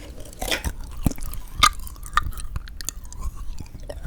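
Close-miked chewing and biting of frozen sweet red bean jelly (yanggaeng): irregular sharp, wet mouth clicks and crunches, with a longer crunchy bite about half a second in.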